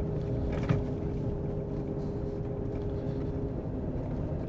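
Truck driving at about 50 mph: steady engine and road rumble with a level hum that fades out about three and a half seconds in, and a faint click under a second in.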